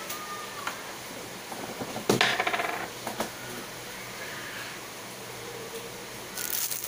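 Metal kitchenware clanking: a sharp clank about two seconds in that rings briefly, a few lighter clicks around it, and a short rattle near the end.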